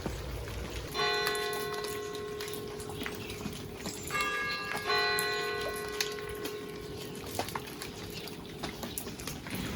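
Church bells struck three times: once about a second in, then twice close together around four and five seconds in, the middle stroke higher and shorter, the others ringing on and fading slowly. Water drips and trickles in the background.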